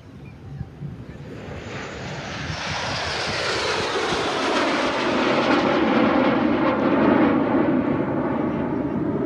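Fixed-wing aircraft flying past at an airshow. Its engine noise builds steadily, peaks about two-thirds of the way in, then falls in pitch as it passes.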